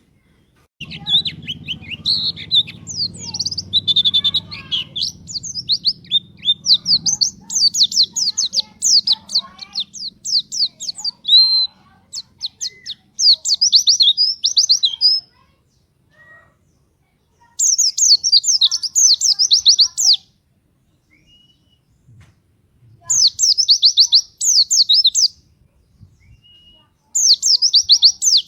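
White-eye (pleci) singing vigorously in rapid strings of high, quick, downward-slurred notes. First comes one long unbroken run, then three shorter bursts separated by pauses. This is the energetic 'gacor', 'nembak' song used as a lure to draw other white-eyes into singing. A low hum lies under the first few seconds.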